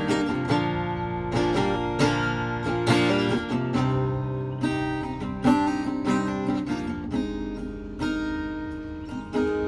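Acoustic guitar strummed in a steady rhythm, an instrumental break between sung verses of a country-style song.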